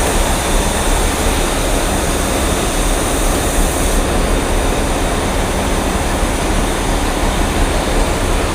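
A train's engine running steadily, a constant rumble and hiss that does not change.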